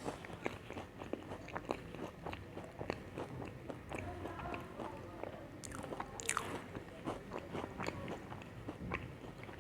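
Close-up chewing of crunchy chocolate cookies, with many small crisp crackles and a louder crunch about six seconds in.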